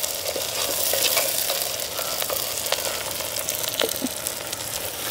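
Sliced onions, green chillies and curry leaves sizzling steadily in hot sesame oil in a pan as they are stirred, with scattered clicks and scrapes from the stirring.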